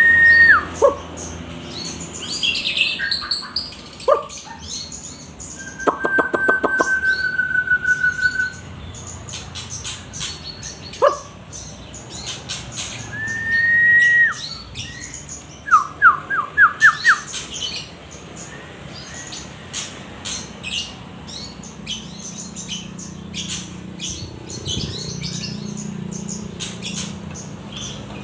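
Songbird singing: a busy stream of quick high chirps, broken by a few loud, clear whistled notes, one held for about two seconds, and a fast run of repeated notes near the end of the first half.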